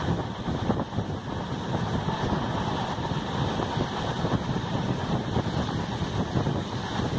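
Steady rumble of a moving passenger train heard from an open coach doorway, with wind buffeting the microphone.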